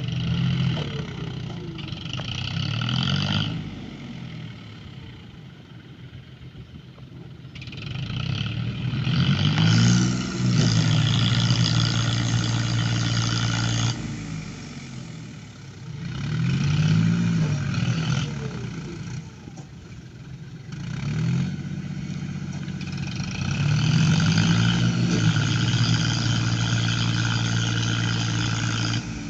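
Tractor engine revving up and falling back again and again under heavy load, as a tractor strains to pull free of deep mud. There are abrupt jumps in the sound a few times.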